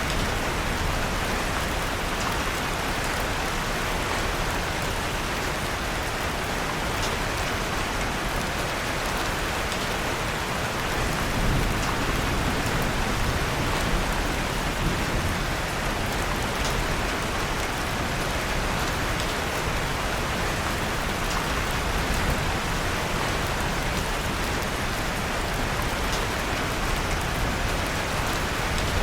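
Steady rain falling, an even hiss with scattered faint crackles of a wood fire burning in a fireplace. The rain swells slightly about eleven seconds in.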